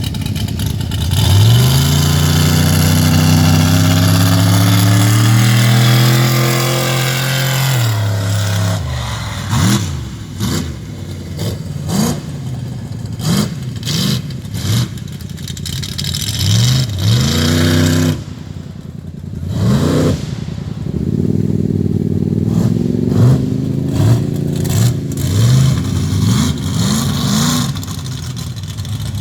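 Mega truck's engine revving hard: one long pull climbing in pitch for several seconds, then a run of short throttle blips, with a brief drop-off about two-thirds of the way through.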